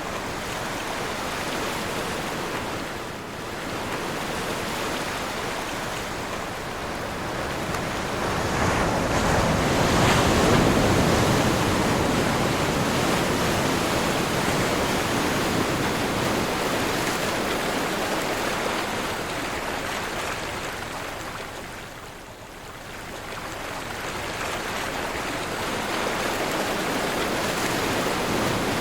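Sea surf with wind: a continuous rush of waves that swells to its loudest about a third of the way in and ebbs to a brief lull about two-thirds of the way through.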